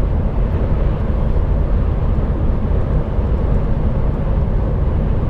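Steady low drone of an HGV truck's engine and tyre noise, heard from inside the cab while driving on the motorway.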